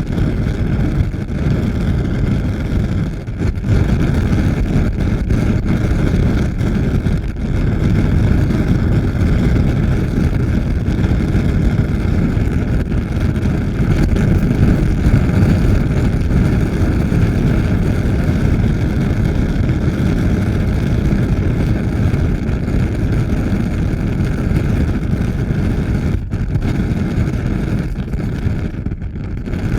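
Fire burning with a loud, steady, deep rumble of noise that dips briefly a few times.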